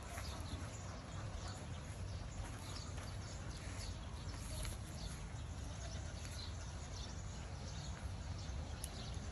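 Outdoor ambience of small birds chirping, many short scattered chirps, over a steady low rumble.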